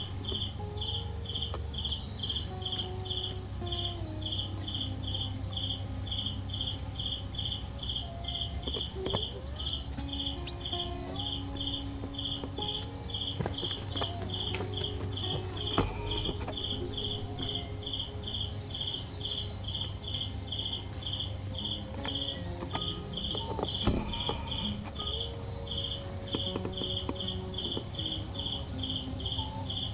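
Insects chirping in a steady rhythm, a little under two chirps a second, over a continuous high-pitched insect buzz, with a few faint knocks.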